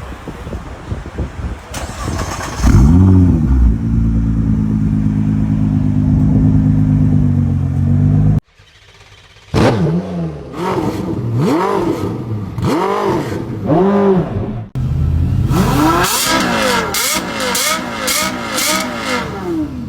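High-performance car engines revving in a string of short clips: one engine blips once and settles into a steady, deep idle, then, after a cut, a series of sharp throttle blips with the revs rising and falling, and after another cut a further run of quick, high revs.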